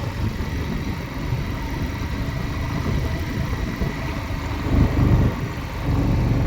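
Motorcycle engine running at low speed, a steady low rumble that swells briefly about five seconds in.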